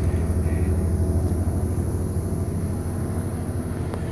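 An engine running steadily, a continuous low even hum.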